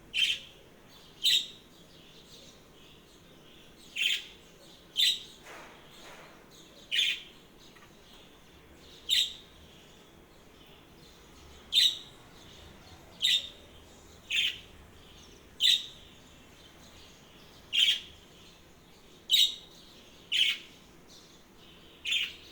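A small bird chirping: about fourteen short, sharp chirps, singly or in pairs, every one to three seconds, over a faint steady hiss.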